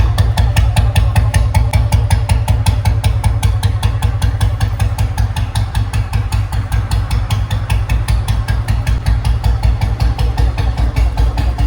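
Royal Enfield Bullet single-cylinder four-stroke engine idling with a steady, even beat.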